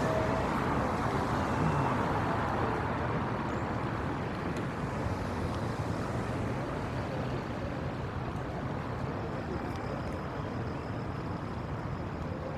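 Busy city street ambience: a steady wash of traffic noise and background crowd, getting slightly quieter toward the end.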